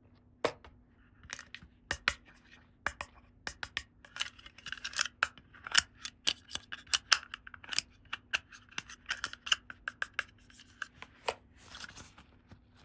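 Hands handling small plastic toy pieces and packaging: many irregular light clicks and taps, with short scratchy rustles between them.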